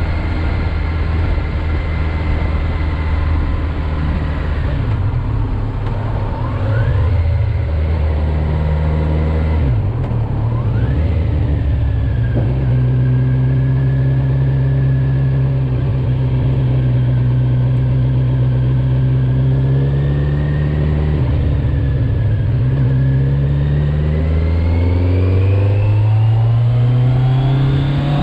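Kawasaki Z900 motorcycle's inline-four engine, restricted to 35 kW, running under way. Its note holds steady, breaks off briefly about ten seconds in, settles at a higher pitch, then climbs steadily near the end as the bike accelerates.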